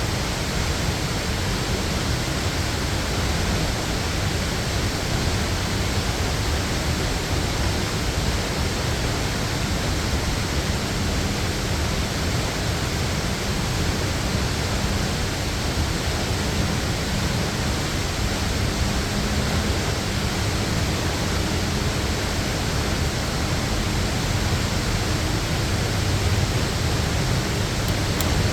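Steady, unbroken rush of a waterfall, a full roar of falling water.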